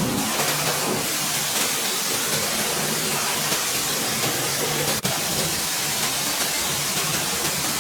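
A car-detailing tool's jet hissing steadily over a steady motor hum, with a brief break about five seconds in.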